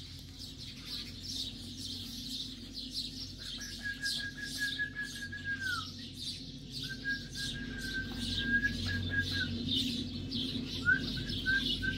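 Many small birds chirping rapidly and continuously. A clear high whistled note is held for about two seconds at a time, three times, the last one broken into short pieces. A steady low hum runs underneath.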